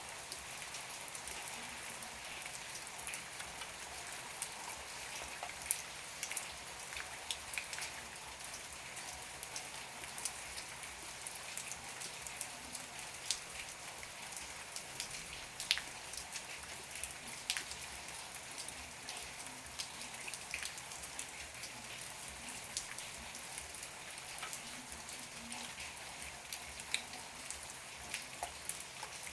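Heavy rain falling steadily, a constant hiss with many sharp drips and drop impacts scattered through it.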